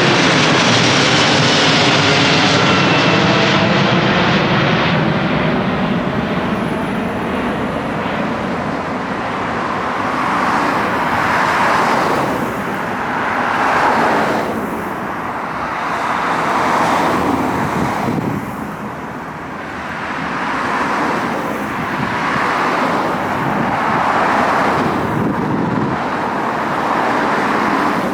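Jet airliner taking off low overhead and receding, its engine whine falling in pitch and fading over the first five seconds. Then passing road traffic, cars swelling by every couple of seconds.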